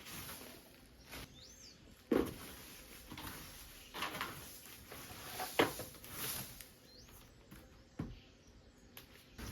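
A small bird chirps twice, short curling calls a few seconds apart. Several sharp knocks or taps stand out louder in between.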